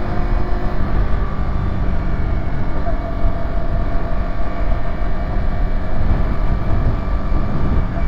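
Yamaha YZF-R125's single-cylinder 125 cc four-stroke engine running while riding, its exhaust note mixed with heavy wind rumble on the camera.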